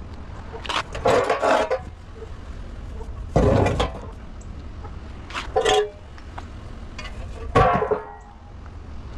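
Pieces of scrap steel clanging and ringing four times as they are handled, over a steady low engine hum.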